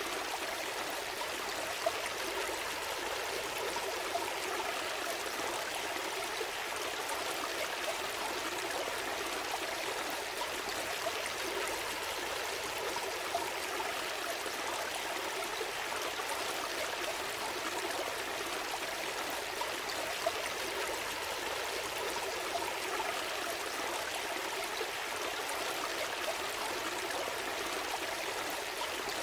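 A gentle stream flowing steadily, with a few brief louder splashes scattered through.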